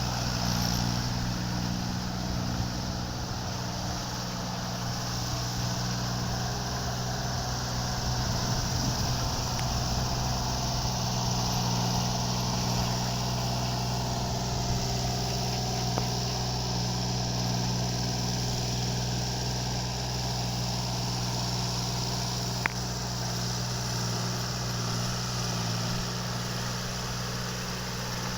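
Tractor engine running steadily at an even speed, with one sharp click about three-quarters of the way through.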